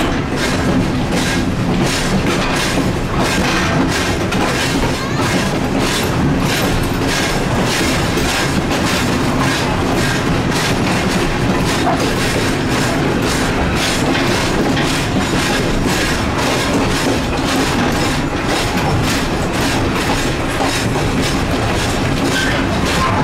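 Passenger train cars rolling along the track, heard from aboard: a steady rumble with the clickety-clack of wheels over rail joints.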